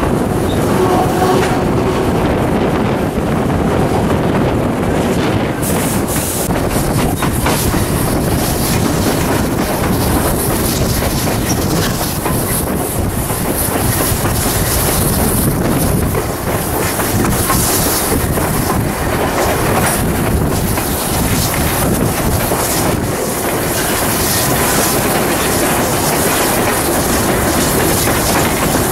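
Steel carriages of a steam-hauled heritage train rolling along the line, their wheels clicking steadily over the rail joints.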